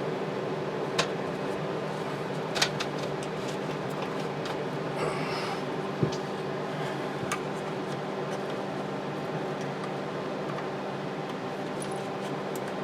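A steady hum runs throughout, with a few scattered sharp clicks and knocks and a brief rustle from hand tools and parts being handled around the engine.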